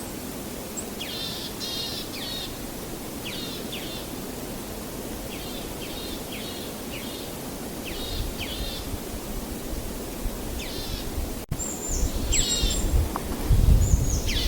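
Small songbirds chirping in repeated groups of quick, high, down-slurred notes over a steady outdoor noise bed. A low rumble builds in the second half and is loudest near the end.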